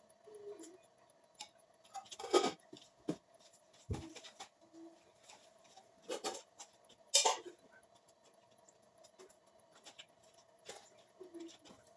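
Scattered light clicks and knocks of things being handled in a kitchen, a few sharper ones, about two seconds in and about seven seconds in, the loudest, over a faint steady hum.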